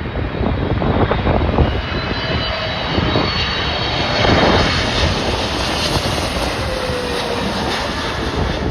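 Jet airliner passing close on landing approach: loud engine noise with a high fan whine, and a tone that slides down in pitch near the end as it goes by. Gusty wind buffets the microphone underneath.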